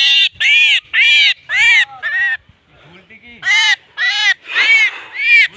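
A bird calling harshly over and over, about three short arched cries a second, with a pause of about a second in the middle.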